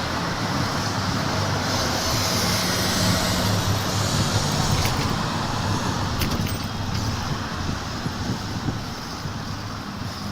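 City street traffic: a motor vehicle's engine running close by over steady road noise. It is loudest a few seconds in, then fades away.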